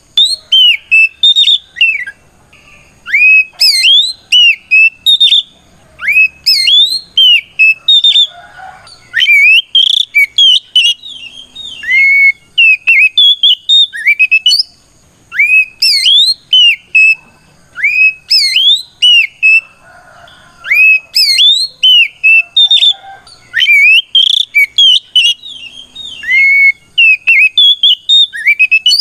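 Oriental magpie-robin (kacer) singing its loud 'ngeplong' song: clear whistled notes that glide up and down, in quick phrases of a second or two with short pauses between. This is the bird's challenge song, calling out a rival.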